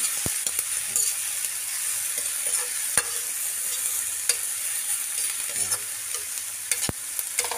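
Peeled balut eggs, onion and green chilies sizzling in hot oil in a metal wok, stirred with a metal spatula that scrapes and clinks against the pan. A steady sizzle with several sharp clinks, the loudest about three seconds in.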